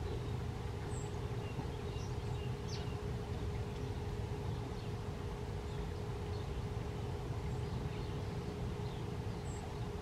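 Steady low outdoor rumble with a constant hum, and a few short, high bird chips: one about a second in and one near the end, with fainter ticks and thin notes around two to three seconds in.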